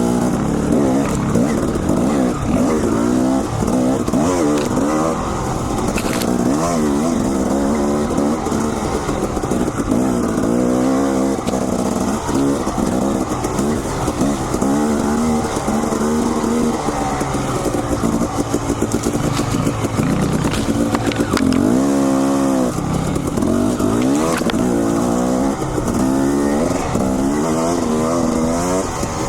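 Dirt bike engine being ridden on a steep trail, its pitch rising and falling over and over as the throttle is opened and closed.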